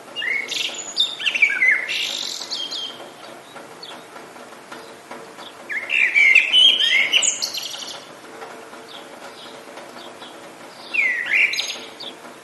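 A songbird singing three phrases of quick rising and falling whistled notes, a few seconds apart, over a steady hiss of rain.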